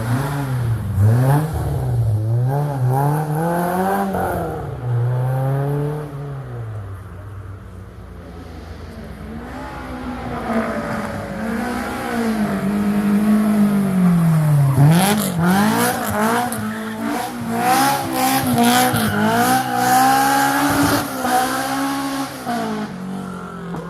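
Datsun 1200 rally car with a swapped-in Honda S2000 F20C four-cylinder engine driven hard: the engine note climbs and drops repeatedly with gear changes and lifts off the throttle. It fades for a few seconds, then comes back loud, with a run of short sharp cracks in the second half.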